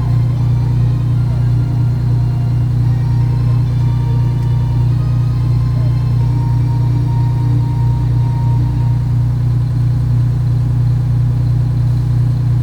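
Antique fire truck engine running steadily at parade crawl speed, a deep, even drone heard from inside the cab.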